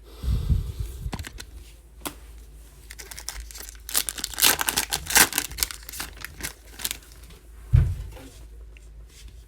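A trading-card pack wrapper being torn open and crinkled, loudest in the middle, with heavy low handling thumps near the start and near the end.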